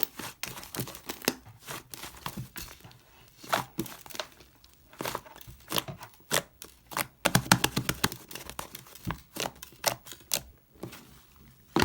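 Soft, fluffy, sticky slime being squished, stretched and pulled apart by hand, giving irregular sticky pops and crackles, some in quick clusters.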